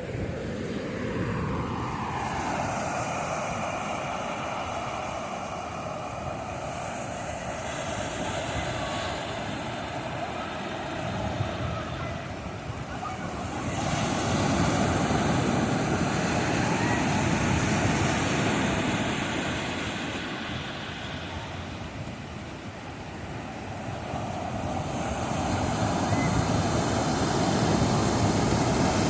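Ocean surf washing in slow swells, louder about halfway through and again near the end, under a steady engine drone that falls in pitch over the first couple of seconds.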